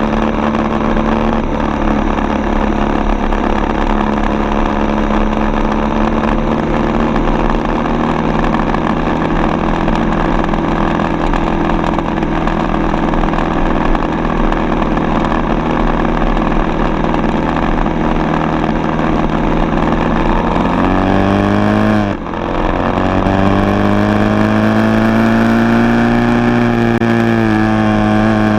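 Four-stroke single-cylinder dirt bike engine under way, holding a steady note for most of the time. Near the end it revs up, drops off sharply for a moment as in a gear change, then pulls up again and holds a higher pitch.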